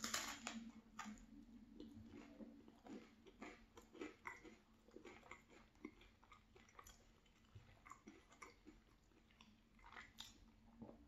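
Faint, close-miked chewing of a soft cheese bagel with jam filling: a bite at the start and another near the end, with small irregular mouth clicks in between.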